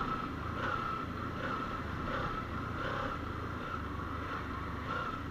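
Kawasaki Ninja 300's parallel-twin engine running on the move, its low rumble surging and dipping in uneven pulses: the bike stuttering as its tank runs out of petrol.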